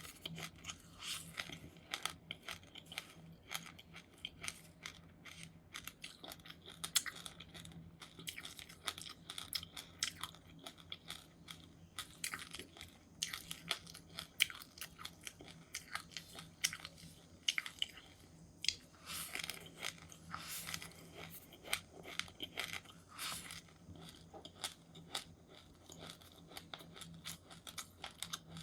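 Close-up chewing and crunching of seeds: a dense, irregular run of small crisp crunches.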